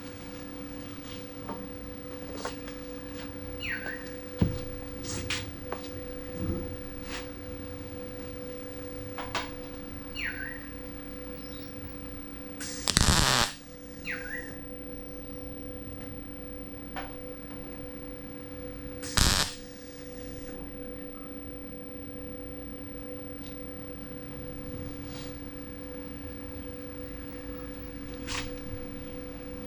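Two short MIG welding tacks on sheet steel: a crackling hiss of about a second near the middle and a shorter one about six seconds later. Under them runs a steady hum, with scattered light taps on metal and a few bird chirps.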